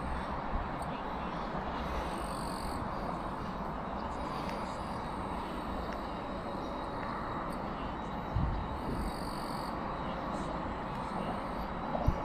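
Steady outdoor background noise with a low rumble, broken by a brief low thump about eight seconds in and another near the end.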